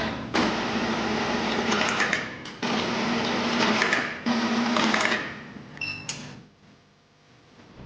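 A small motorised workshop tool running in three stretches, each one starting abruptly, then winding down and falling quiet about two-thirds of the way through.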